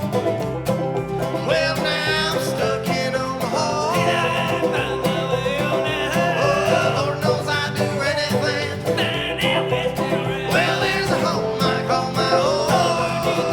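Bluegrass band playing, banjo and guitar picking steadily under a melody line that enters about a second and a half in.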